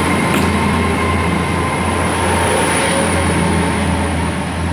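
Two coupled five-car Class 800 trains pulling out past the platform on their underfloor diesel engines, giving a loud, steady rumble with a low engine hum and a thin high whine. The sound eases slightly near the end.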